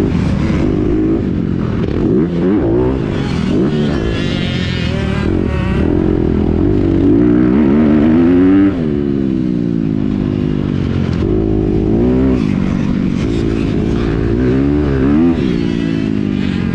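Honda CRF250R's single-cylinder four-stroke engine being ridden hard, revving up and chopping off again and again. The longest climb peaks about eight seconds in and then drops sharply.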